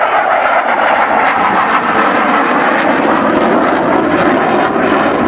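Airplane engine noise from an aircraft flying past, loud and steady, its pitch slowly falling.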